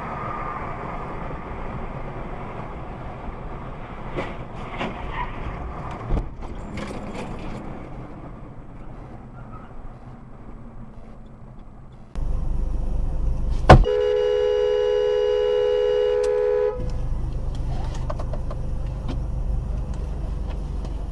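Steady road and engine noise of a moving car, heard from inside. About halfway through it turns abruptly to a louder low rumble, and after a sharp click a car horn is held for about three seconds before the rumble carries on.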